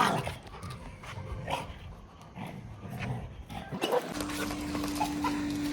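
A pet dog's short bark and whimpering noises while it plays, over a low rumble. A steady low tone starts about four seconds in.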